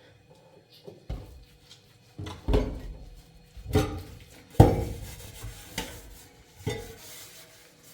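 Dishes and pots being handled and set down: a handful of separate clattering knocks, the loudest about halfway through.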